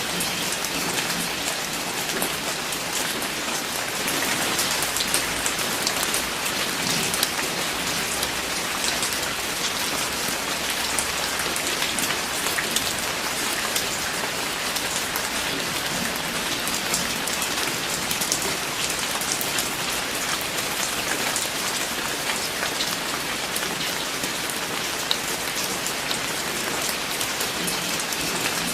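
Steady rain falling and pattering on a surface, with many fine drop ticks.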